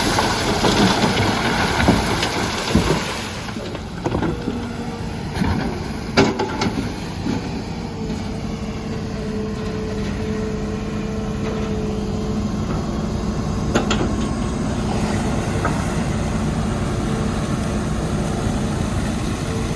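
Hitachi Zaxis 210 excavator's diesel engine running steadily under working load, with a rushing noise in the first few seconds and scattered sharp knocks and clanks of the bucket and rock.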